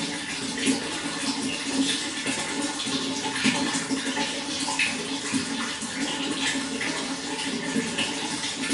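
Running water flowing steadily, a continuous splashing burble with many small droplet-like pops throughout.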